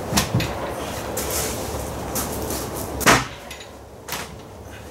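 A few knocks and clunks of the heavy wooden transom frame being shifted into place as it hangs from a chain hoist, with one sharp knock about three seconds in.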